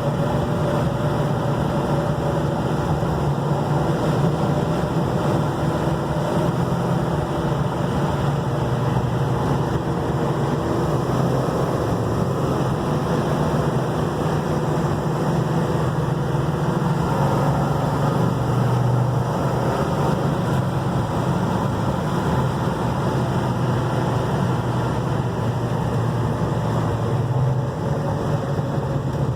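1969 Dodge Charger's 440 big-block V8 running steadily at a cruise, a low engine drone with road and wind noise, heard from inside the car.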